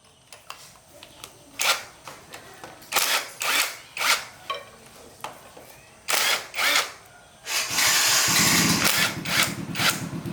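Several short metallic knocks, then a motor starts about three-quarters of the way in and keeps running loudly with a fast, even pulse.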